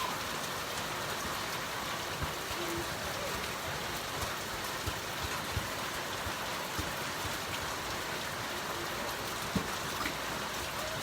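Steady rain falling, with a few louder drops tapping now and then.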